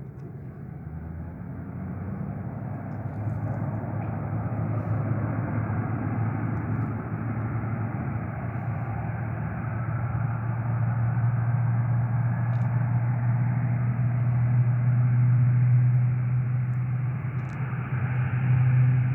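Aircraft engines running with a steady low hum, growing steadily louder as the airliner comes closer.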